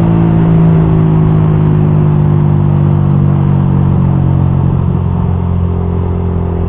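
Suzuki GSX-R150's single-cylinder four-stroke engine running loud at speed through an R9 Misano racing exhaust. Its pitch slowly drops as the revs ease off.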